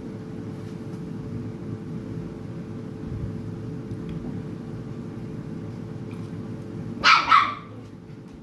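A dog barks twice in quick succession about seven seconds in, over a steady background hum.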